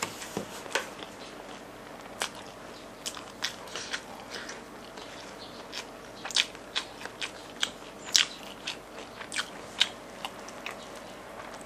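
Close-up eating of crispy fried chicken: irregular crunches and crackles as the battered chicken is torn apart by hand and chewed, with a run of louder crunches in the second half.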